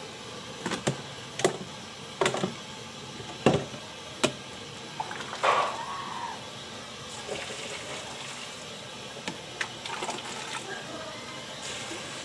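Water pouring and sloshing, with several sharp knocks in the first few seconds and a few more near the end.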